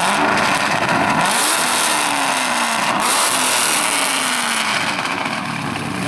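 A muscle car's engine accelerating hard, its pitch climbing and dropping several times as it revs up through the gears.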